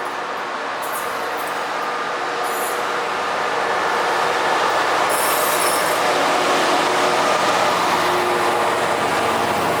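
A train running past on the rails, its wheels squealing in short high-pitched bursts, with the running noise growing steadily louder.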